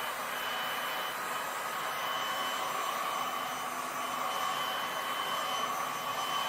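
Heat gun running steadily, blowing hot air over freshly poured resin to warm it and push sand back into place; a continuous rushing whir with a faint steady whine.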